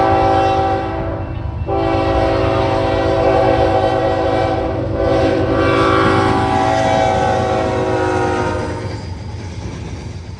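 Diesel freight locomotive's multi-chime air horn sounding: a short blast, then a long blast of several seconds that fades out near the end. Under it runs the low rumble of the passing train.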